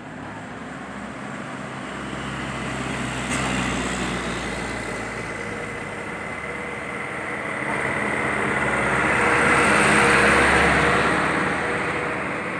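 Road traffic: a motor vehicle passing close, its engine and road noise growing to loudest about ten seconds in, then fading.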